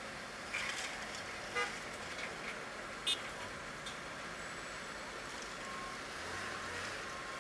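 Steady street traffic noise, with a short horn toot about a second and a half in and a brief high-pitched beep about three seconds in.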